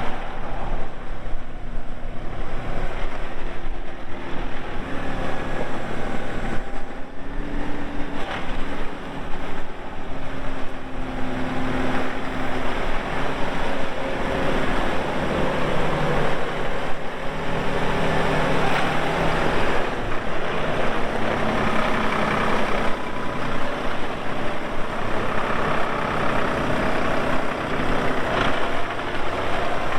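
Massey Ferguson 4608 tractor's diesel engine running under load, its pitch rising and falling several times as it is revved and worked.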